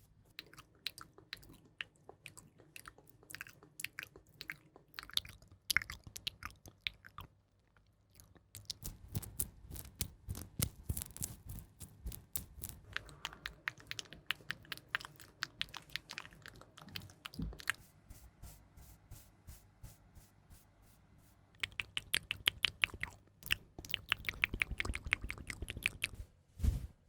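Close-miked ASMR trigger sounds: dense runs of crisp clicks and crackles, with a short lull about seven seconds in and another near the end.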